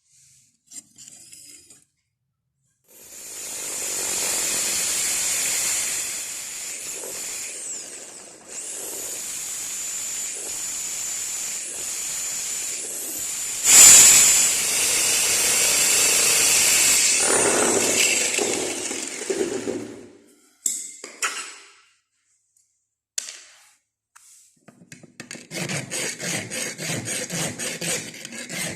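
A power tool with a steady high whine works the knife steel for a long stretch, loudest about halfway through. Near the end, quick rhythmic back-and-forth strokes of a hand tool on the steel begin.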